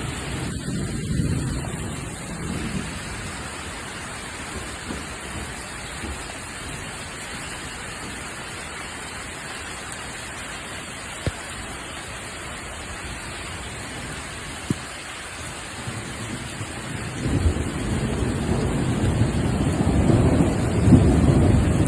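Heavy rain pouring with a steady hiss, with thunder rumbling low in the first couple of seconds and a longer, louder rumble building over the last five seconds. Two single sharp ticks stand out near the middle.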